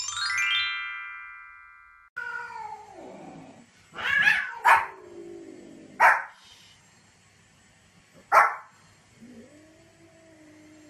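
A quick descending run of chime notes, then a cat meowing while a small white fluffy dog barks four short, sharp times; the cat meows again near the end.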